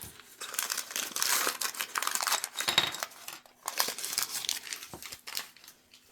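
Thin plastic packaging crinkling and rustling as it is handled and opened, in several bursts that die away near the end.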